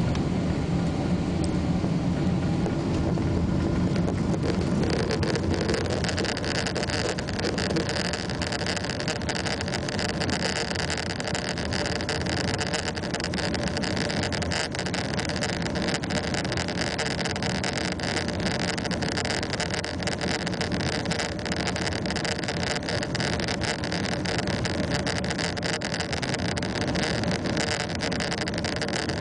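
Boeing 777-300 jet engines heard from inside the cabin, their pitch and noise building about five seconds in as they come up to takeoff thrust. Cabin fittings rattle steadily through the roll.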